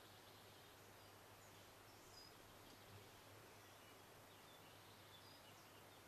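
Near silence: a faint outdoor background hiss with a low steady hum, and scattered faint, short high bird chirps.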